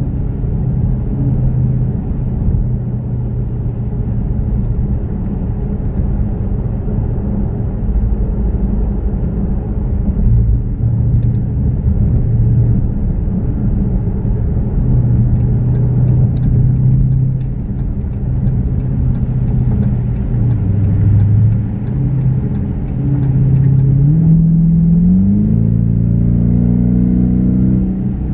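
Dodge Challenger R/T's 5.7-litre HEMI V8 from inside the cabin at freeway speed: a steady engine drone over tyre and road rumble. Near the end the engine note rises as the car accelerates.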